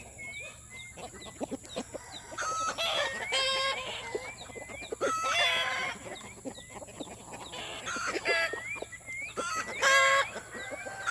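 A flock of chickens calling over one another: clucks and crowing from several birds, with short rising peeps repeated in between. The loudest call comes about ten seconds in.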